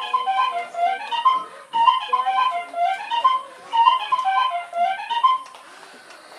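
Instrumental music: a flute-like melody of quick repeating note figures, which stops about five and a half seconds in.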